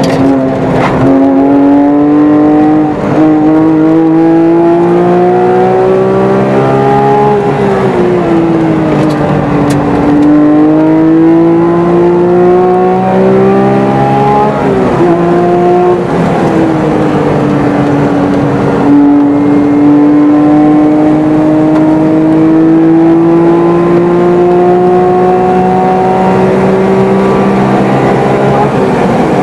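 Porsche GT3 RS flat-six engine heard from inside the cabin under hard track driving. The revs climb, fall away for a few seconds about a quarter of the way in as the car slows for a corner, climb again, dip briefly near the middle with a gear change, then rise slowly and steadily down a long straight.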